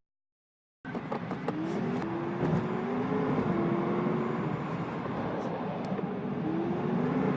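Car engines running in traffic, their pitch rising and falling as vehicles accelerate, over a steady rush of road noise. The sound starts abruptly just under a second in after a moment of silence.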